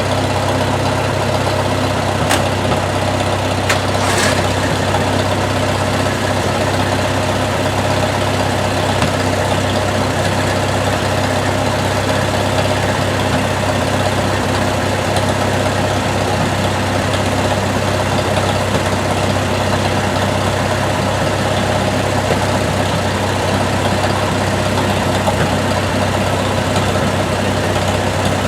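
A vehicle engine running steadily at a constant speed, a low even drone, with two brief clicks about two and four seconds in.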